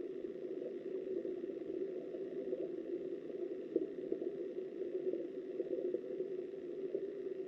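River water flowing past a submerged camera, heard underwater: a steady, muffled rushing.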